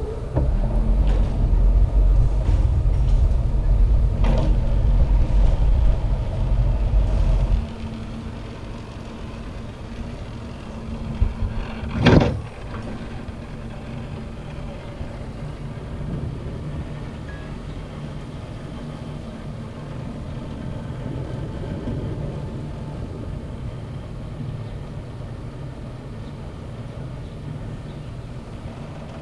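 Cableway machinery during a ride: a heavy low rumble that stops abruptly about seven and a half seconds in, then a short, loud clatter about twelve seconds in, followed by a steady low hum of the running line.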